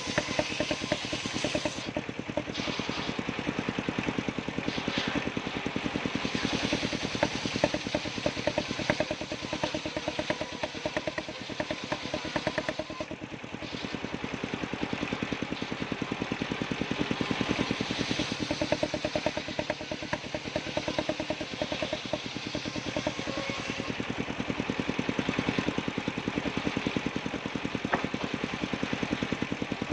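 Engine driving a circular sawmill, running steadily with a rapid, even firing beat.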